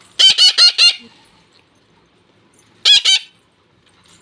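Pet parakeets screeching: a quick run of four harsh calls, then two more about three seconds in.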